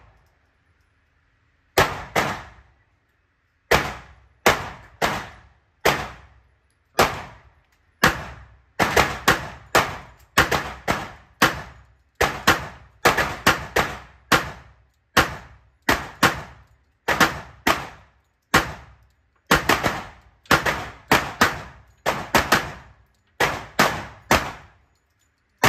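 Pistol shots fired in a long, irregular string: dozens of sharp reports with short gaps, some coming in quick pairs, starting about two seconds in.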